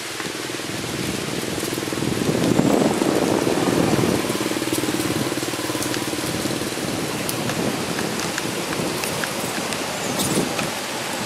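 Light rain falling steadily, with scattered drop ticks. A low rumble swells about two seconds in and fades over the next few seconds.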